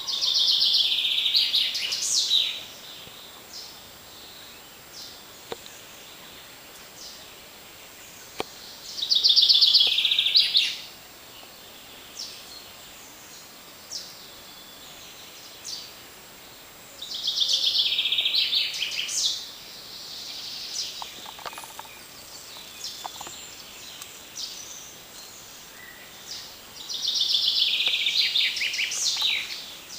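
A songbird sings a loud, fast, descending trilled phrase four times, about every eight seconds. Between phrases there is the steady rush of a forest creek.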